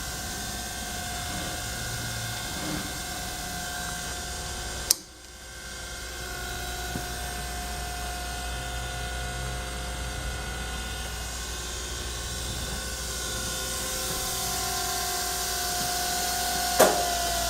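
DoAll surface grinder running, a steady machine hum with a held whine. Two sharp clicks, about five seconds in and near the end.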